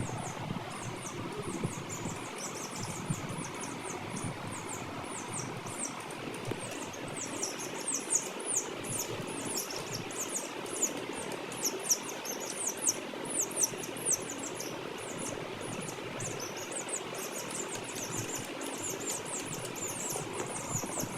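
Chicks peeping all together: many short, very high chirps overlapping, over a steady low background hum.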